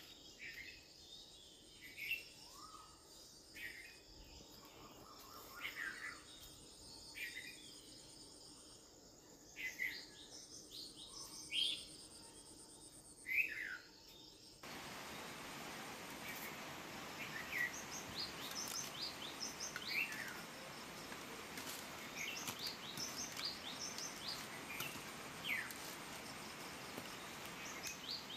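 Small birds chirping in short, scattered calls over a faint background hiss, which becomes louder about halfway through.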